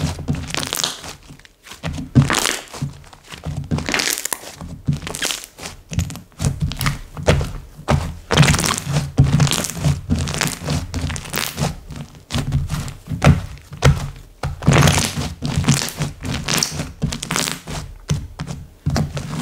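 Slime being squeezed and kneaded by hand, giving a continuous run of irregular sticky clicks, pops and soft thuds.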